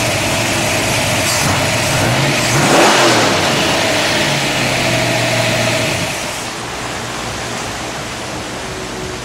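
Ford 351 Windsor V8 crate engine with a roller cam running just after a restart, blipped once about three seconds in. About two-thirds of the way through the engine note falls away, leaving a quieter steady hiss.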